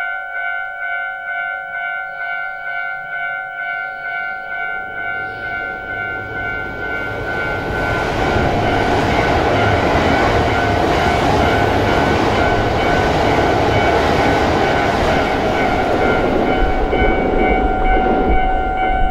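Yamagata Shinkansen E3 series 'Tsubasa' train passing through at speed: its rumble and rush build from about five seconds in and stay loud from about eight seconds on. Under it runs a steady whine with a soft pulse about twice a second, noise from a faulty video camera.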